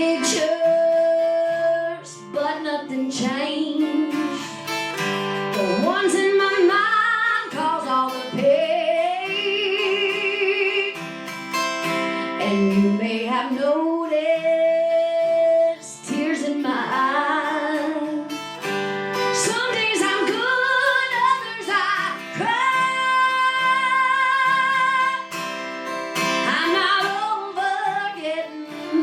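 A woman singing a slow country ballad, holding long notes with vibrato, over strummed acoustic guitar.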